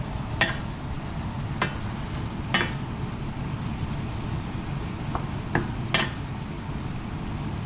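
Onions and peppers cooking in a tomato sauce in a pan, stirred with a utensil that knocks sharply against the pan about six times, over a steady low rumble.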